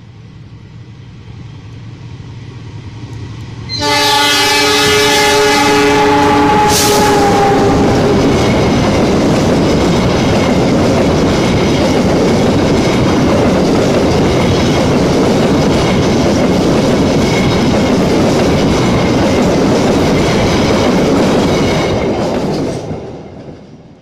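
Diesel-electric locomotive hauling an express passenger train, approaching fast and running straight through. About four seconds in, its horn blows a long chord, a driver's greeting, for some four seconds, and the pitch drops as the locomotive passes. The coaches then rush by with a loud, steady rumble of wheels on rail, fading away near the end.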